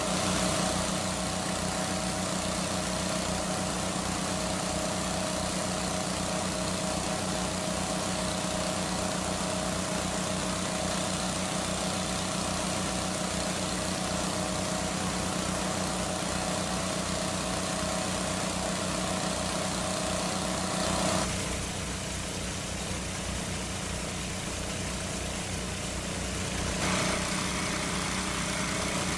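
Small engine running steadily at a constant speed, with a fast even pulse. About two-thirds of the way through its tone thins for several seconds, then returns.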